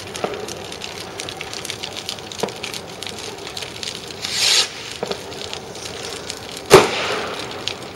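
Bonfire-night fireworks: a constant crackle of small pops, a short hissing rush about four seconds in, then one loud bang near the end that echoes briefly.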